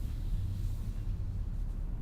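A low, steady rumbling drone.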